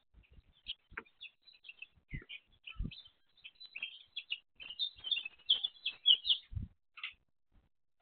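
A small bird chirping in quick, rapid runs of short high notes, busiest in the middle of the stretch, with a few dull low thumps in between.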